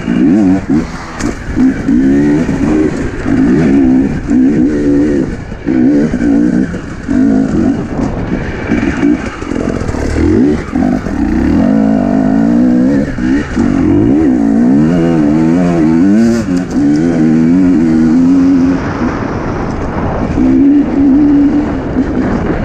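Husqvarna enduro dirt bike engine revving up and down in constant short throttle blips as the bike picks its way over rough trail, with occasional knocks.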